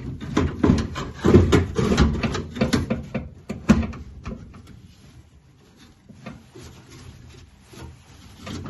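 Steel window regulator being worked and slid around inside a 1967 Mustang door shell: a run of metal clunks, knocks and scraping, settling after about four seconds into a few light clicks.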